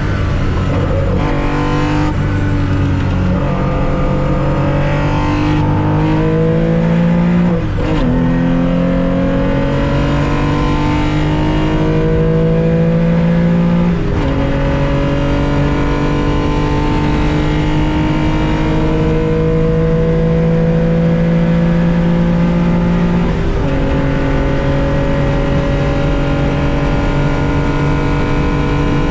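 Air-cooled flat-six engine of a 1965 Porsche 911 2.0, heard from the cockpit under hard acceleration. It climbs in pitch through each gear and drops at four upshifts, each gear held longer than the one before.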